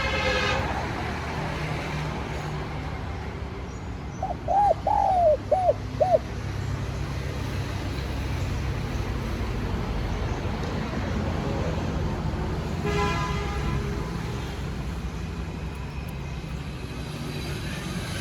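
Spotted dove cooing: one phrase of about five arched notes roughly four seconds in, over a steady low rumble like road traffic. Brief horn-like toots sound near the start and again about 13 seconds in.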